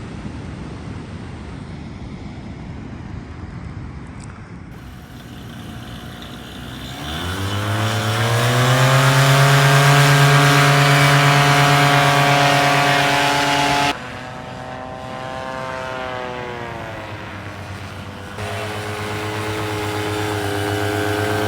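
Paramotor engine and propeller heard in flight over a rushing wind hiss. About seven seconds in, the engine throttles up with rising pitch into a loud steady drone. After that it drops sharply, its pitch sinking, then holds a steady lower drone near the end.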